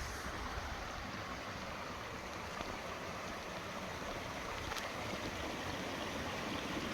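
Steady rush of water from a small waterfall and stream.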